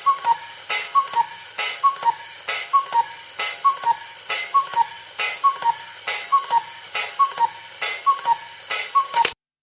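Cartoon bird sound effect: a two-note chirp, the second note a little lower, with a click on each, repeated about once a second. It cuts off suddenly near the end.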